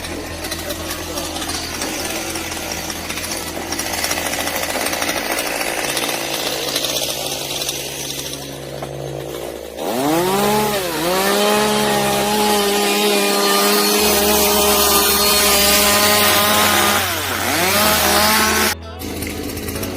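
Chainsaw cutting firewood. Its engine pitch dips and climbs back twice as the chain loads up in the wood, and the sound cuts off sharply near the end.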